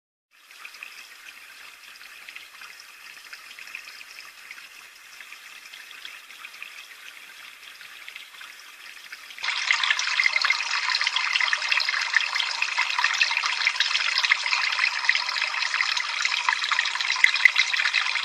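Water trickling and splashing steadily, fairly soft at first, then suddenly much louder about nine seconds in.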